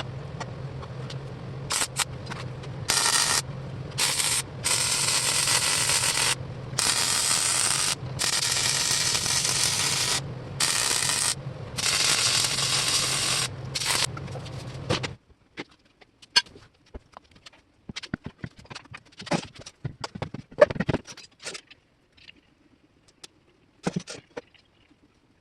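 Welder arc crackling in repeated bursts of a second or two, with short pauses between beads, over a steady low welder hum. The hum stops suddenly about fifteen seconds in, and scattered light clicks and knocks follow.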